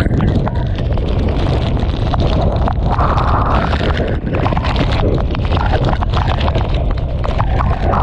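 Typhoon-force eyewall wind and torrential rain: a loud, unbroken rush with heavy wind rumble on the microphone and many sharp crackles of rain and spray striking, swelling in gusts.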